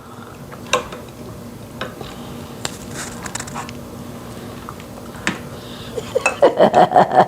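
A spoon clinking against dishes a handful of times while soup is served. About six seconds in, a quick run of short vocal sounds follows.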